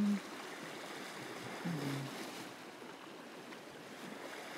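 Steady wash of sea waves on a rocky shore, with a short low hum of a man's voice about two seconds in.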